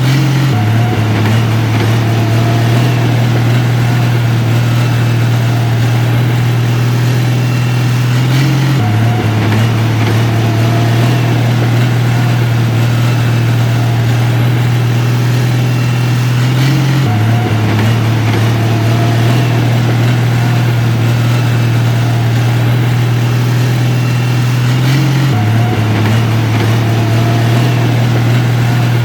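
Engine of heavy construction equipment running steadily with a strong low hum; the same pattern repeats about every eight seconds.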